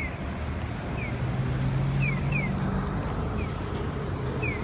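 Japanese pedestrian crossing signal sounding the walk phase: short electronic chirps that fall in pitch, mostly in pairs about every two and a half seconds, with fainter single chirps in between. A steady low hum of traffic lies underneath.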